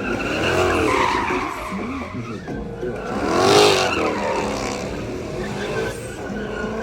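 A car doing a burnout: the engine revs up and down repeatedly while the tyres squeal, loudest a little past halfway.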